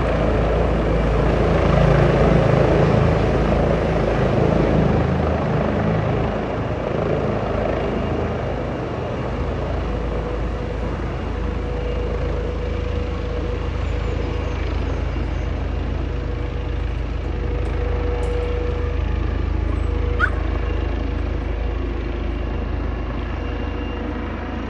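Helicopter running with a continuous rumble. It is louder over the first several seconds, and a steady hum joins about halfway through.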